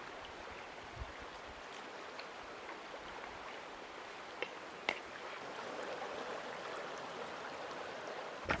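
Steady rushing of flowing stream water, a little fuller in the second half, with a few faint ticks.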